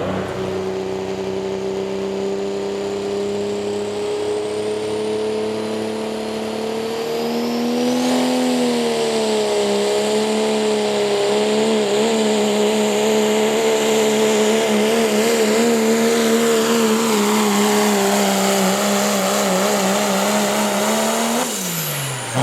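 Pulling vehicle's engine running at high revs under load down the track. Its note wavers from about a third of the way in, holds high and loud, then drops away abruptly near the end as the engine comes off.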